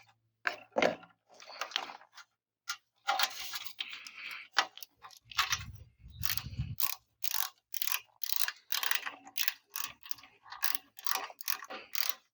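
Ratchet wrench clicking in quick runs of strokes as it tightens a screw on a lawn tractor engine, with a dull low rumble of handling about halfway through.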